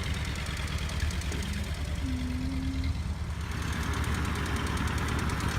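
Old tractor engine running steadily with an even low rumble.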